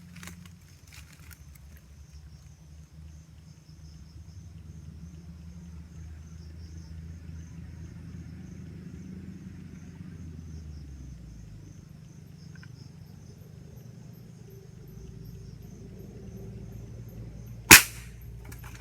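A single sharp shot, short and loud, about a second before the end. It sounds over a steady low rumble and a faint high buzz.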